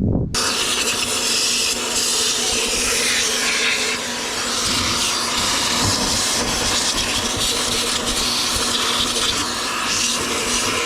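Vacuum cleaner switching on abruptly and then running steadily: a motor hum under a loud rush of air.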